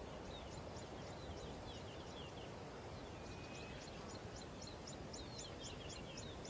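Faint bird calls: runs of short, high chirps, about four a second, with a short break about halfway through, over a steady background hiss.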